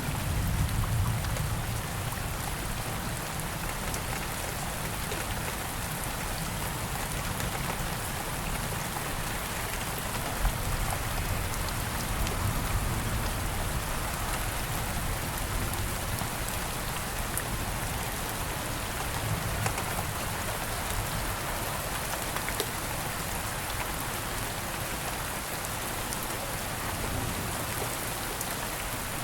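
Steady rain falling, an even hiss with scattered single drops ticking through it. A low rumble of thunder fades out in the first second or so.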